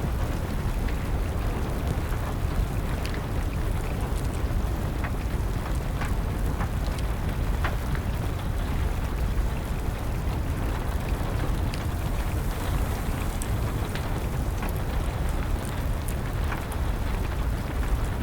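Steady rain with a low rumble under it, and irregular sharp pops and crackles of a burning wood fire scattered through.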